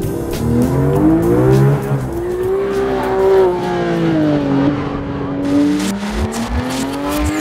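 Porsche 911 GT3 RS 4.0's 4.0-litre flat-six revving hard as the car drives on track. The pitch climbs, drops sharply at each gear change about two seconds in and again near six seconds, then climbs again.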